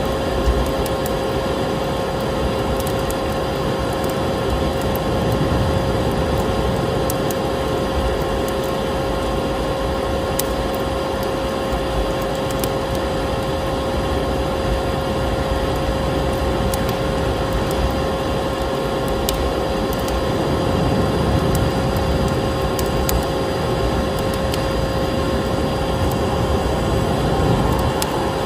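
Vacuum cleaner running with a steady whine, mixed with the scattered crackles and pops of a wood fire burning in a fireplace.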